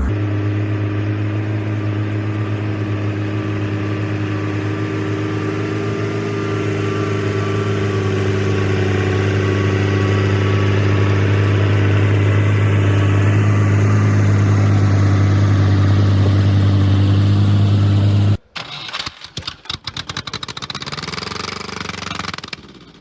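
Heavy truck's diesel engine running steadily under load as it climbs, holding one pitch and slowly growing louder. About 18 seconds in it cuts off abruptly, and a choppy, uneven engine clatter with sharp knocks follows.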